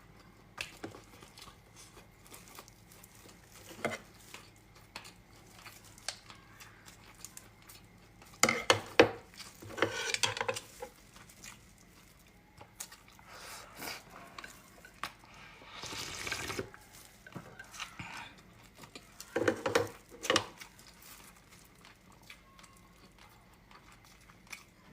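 Utensils clinking and scraping against a bowl of food in scattered bursts, loudest about eight to ten seconds in and again near twenty seconds.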